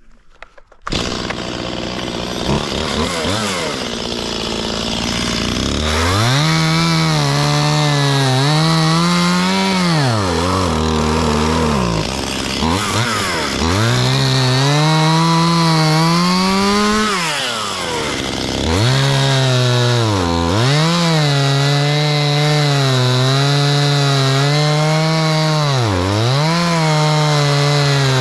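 Small Stihl chainsaw starting up about a second in, then revved and cutting into a tree: the engine pitch sags again and again as the chain bogs in the cut and climbs back to full revs.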